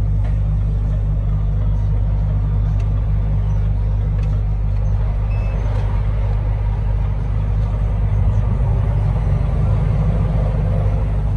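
Truck engine running with a steady, deep drone, getting slightly louder about eight seconds in.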